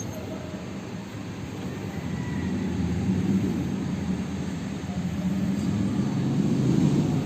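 A low, steady engine rumble that swells about three seconds in and again near the end.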